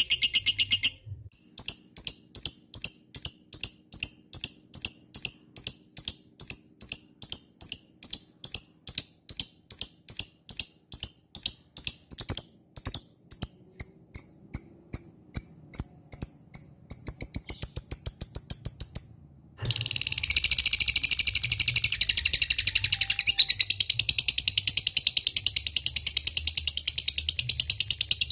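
Lovebird calling high and sharp: first a long run of separate repeated chips, about two a second (the 'ngetik' call). Then, after a brief break about two-thirds of the way in, a fast unbroken chattering trill, the long 'ngekek' that is used as a bait call to set other lovebirds singing.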